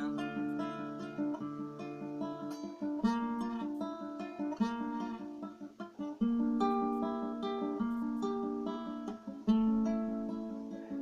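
Acoustic guitar playing alone: single picked notes in a repeating pattern over ringing bass notes, with stronger accents about three, four and a half, six and nine and a half seconds in.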